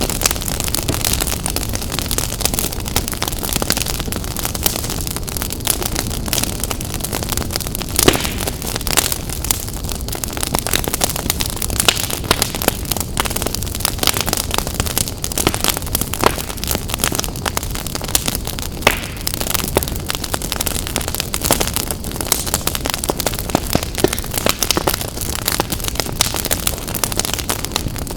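Wood fire in a fireplace crackling steadily: a dense run of small pops and hiss, with a few louder snaps, the sharpest about eight seconds in.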